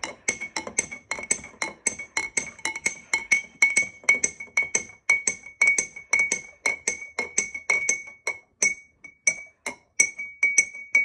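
Stirring utensil clinking rapidly and steadily against the inside of a ringing cup, about four clinks a second, while paint is stirred into warm water to dissolve it.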